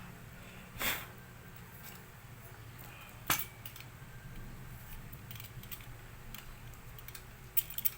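A short puff of breath blown into the laminator's insides to clear dust about a second in, then a few light clicks of parts being handled, over a steady low hum.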